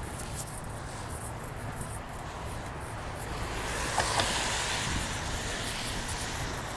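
Road traffic on a snowy bridge: tyres hissing past as one vehicle's sound swells about four seconds in and then fades. Wind rumbles on the microphone underneath.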